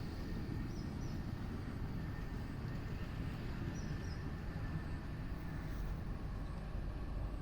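Wind buffeting the microphone: a steady low rumble, with two faint pairs of short high chirps, about a second in and about four seconds in.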